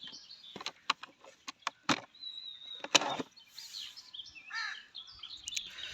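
Scattered light clicks and knocks of plastic toy animals being handled, with faint bird chirps in the background, one about two seconds in and another near the end.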